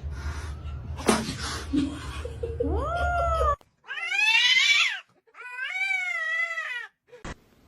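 A cat yowling: a short rising call, then two long, drawn-out calls that waver in pitch, each over a second long. A brief click comes near the end.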